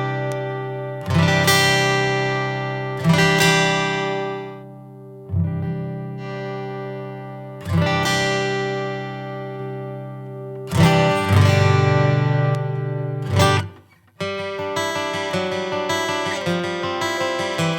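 Guitar played through a Retrospec Squeeze Box tube compressor: single strummed chords left to ring and fade, one every two to three seconds. After a short break about three-quarters of the way through, a quick, steady strumming rhythm follows.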